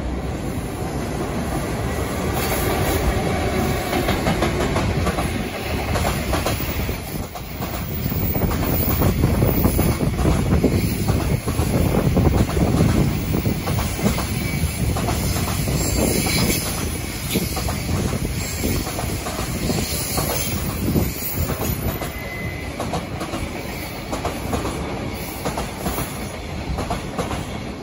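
Freight train rolling past, its wheels clattering over rail joints, loudest around the middle.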